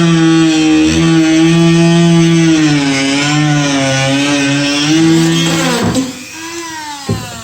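Electric power tool cutting through the kayak's rotomolded plastic hull, its motor whine wavering in pitch as the cut loads it, then winding down about six seconds in, with a few knocks near the end.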